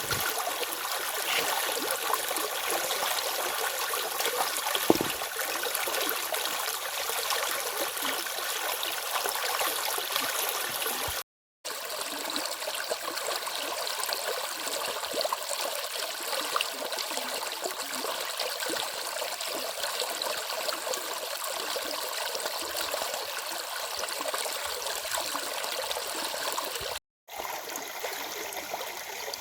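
A stream flowing, a steady rush and trickle of water. It is broken twice by a split-second gap of silence, about a third of the way in and again near the end, with a single sharp click about five seconds in.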